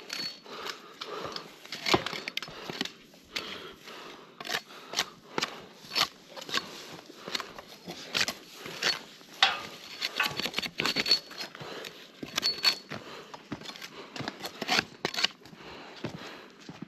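Hand pruning shears snipping through tree branches, a long irregular string of sharp snips and snaps, with twigs crackling.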